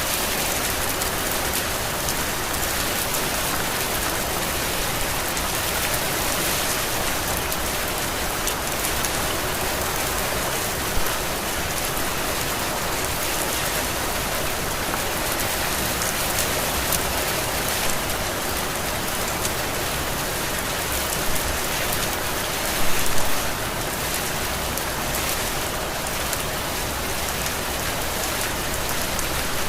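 Heavy rain falling steadily, an even hiss of drops, with a few louder drop hits standing out, the strongest a short cluster about 23 seconds in.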